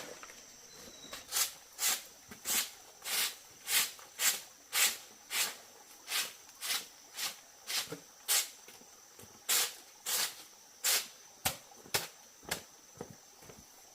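A regular series of short swishing or scraping strokes, about one every half second, over a steady high insect drone.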